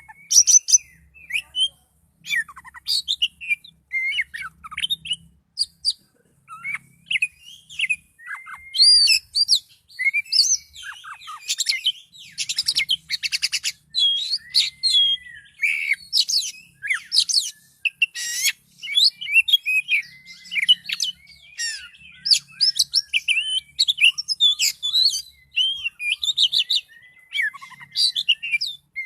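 Oriental magpie-robin (kacer, poci variety) singing nonstop in loud, fast, varied phrases: sliding whistles, chirps and quick rattling trills. This is the full-pitch, agitated singing that keepers call 'gacor' and use as a training recording for other birds.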